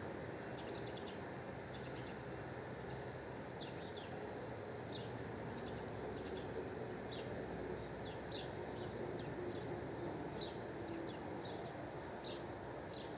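Small birds chirping: short, high chirps about once a second, over a steady background noise.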